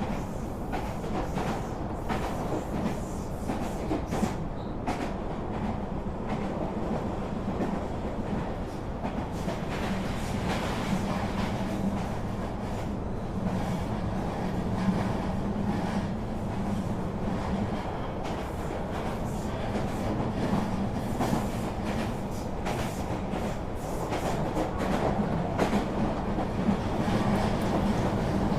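A moving train, running steadily: a continuous rumble with a low mechanical hum and a soft clatter from the tracks.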